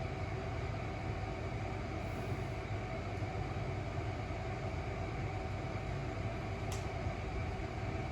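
Steady mechanical hum with a low drone and even hiss, unchanging throughout, with one faint tick near the end.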